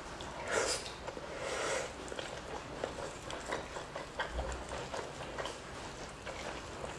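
Wet eating sounds: a mouthful of rice and fish skin eaten by hand being chewed, with lip smacking. There are two louder wet sounds in the first two seconds, then a run of small irregular clicks as the chewing goes on.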